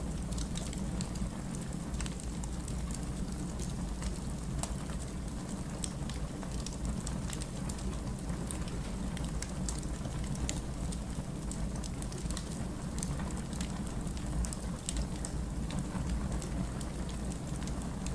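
Wood fire crackling, with frequent small irregular pops over a steady low rumble.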